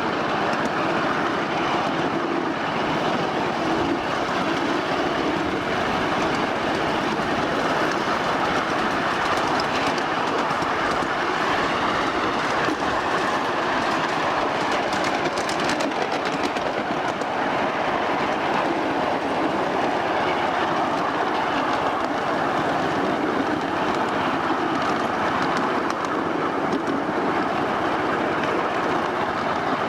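1/8-scale ride-on train running along the track, its wheels clattering and rattling steadily over the rails.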